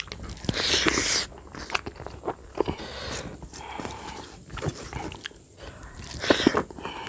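Close-up mouth sounds of a man eating rice mixed with curry by hand: wet chewing and lip smacking. There are two louder bursts as handfuls go into the mouth, about a second in and again near the end.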